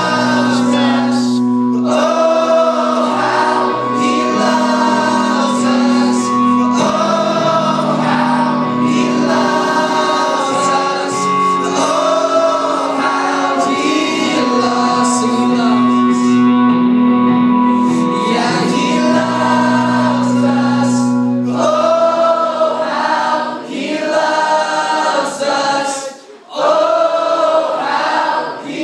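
Voices singing a Christian worship song over held low accompaniment notes. About three quarters of the way through, the accompaniment stops and the singing carries on alone, with a brief break shortly before the end.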